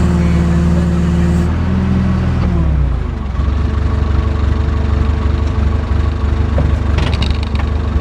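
JCB backhoe's Perkins four-cylinder diesel engine running steadily at raised revs, then dropping to idle about three seconds in and idling steadily.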